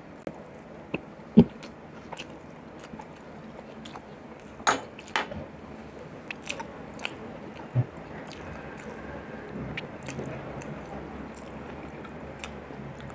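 Close-miked eating sounds: a man chewing and smacking on boiled beef from beef nilaga (bulalo), with a few sharp mouth clicks, the loudest about a second and a half in.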